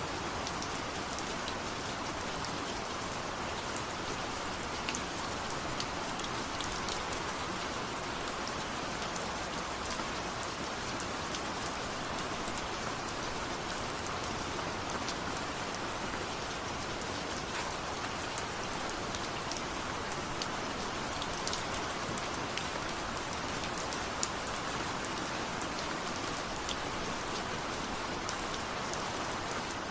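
Steady rain falling, an even hiss with many scattered drops pattering on a surface.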